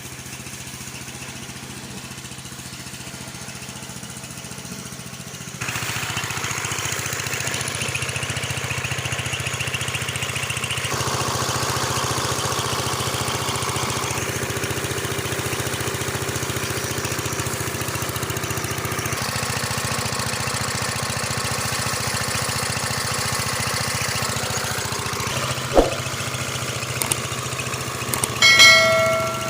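A small engine running steadily, its level and tone shifting in a few abrupt steps, with a sharp knock and then a short pitched tone near the end.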